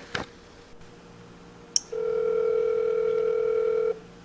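Telephone ringback tone on a recorded phone line: a click, then one steady ring lasting about two seconds that cuts off sharply.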